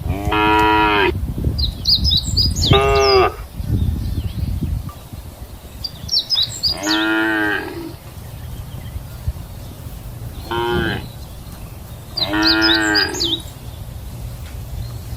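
Cattle mooing: five calls of about a second each, a few seconds apart, with short high bird chirps between them.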